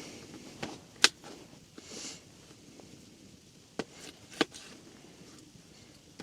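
Mora Garberg bushcraft knife cutting potatoes into cubes, the blade knocking sharply on the cutting board a few times at irregular intervals.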